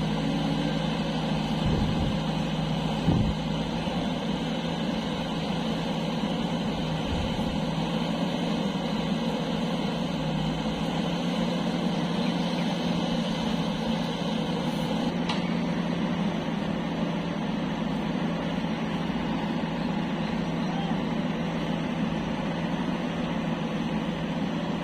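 Heavy diesel engine running steadily at a constant speed, with a single knock about three seconds in.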